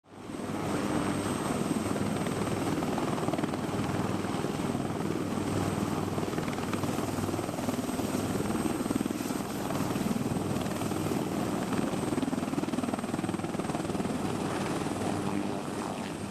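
Helicopter running steadily with its engine and rotor noise, fading in at the start and fading out near the end.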